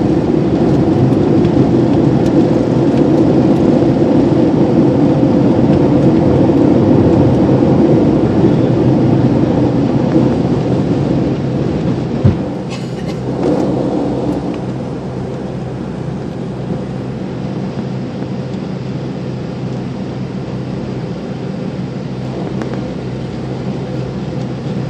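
Airliner cabin noise during takeoff: a steady rumble of jet engines and airflow. A single thump comes about halfway through, and afterwards the rumble drops and settles at a lower level.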